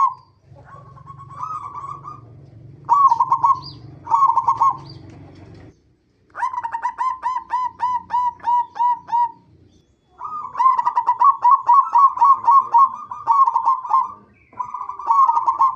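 Zebra dove (perkutut) cooing in phrases of quick staccato notes. Short phrases come first, then longer runs of about a dozen notes each, starting about six seconds in and about ten seconds in. A low hum sits under the first half of the calls.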